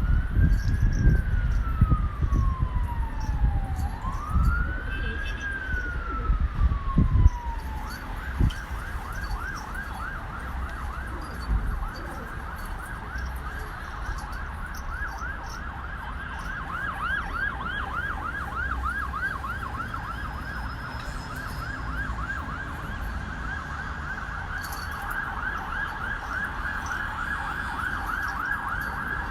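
Electronic siren in a slow rising-and-falling wail for two cycles, then switching about eight seconds in to a fast warbling yelp that carries on. Low rumbling thumps sound under the first several seconds.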